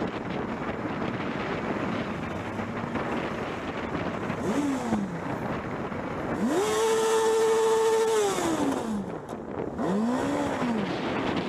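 Steady road noise with an engine revving up and back down three times: a short rev, then a longer one held steady for about two seconds, then another short one.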